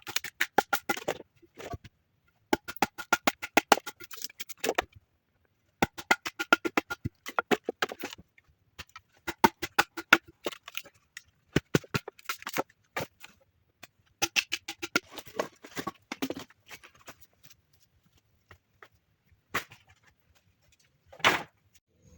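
Rapid knocking on wood in bursts of a second or two, about ten taps a second, with one louder knock near the end.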